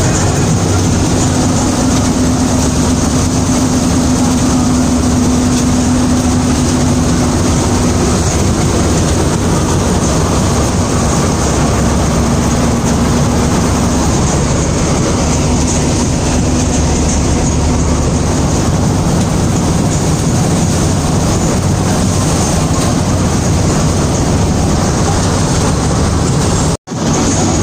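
Vishal 435 combine harvester running steadily at work, its engine and machinery making a loud, continuous drone with a steady hum that is clearest for the first eight seconds or so. The sound drops out briefly near the end.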